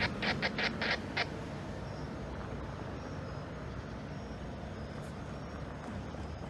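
A train rumbling steadily. A bell rings rapidly, about five strokes a second, and stops about a second in.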